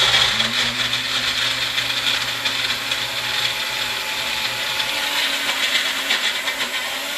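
Magic Bullet personal blender motor running steadily, blending chickpeas, tahini, garlic and lemon juice into hummus.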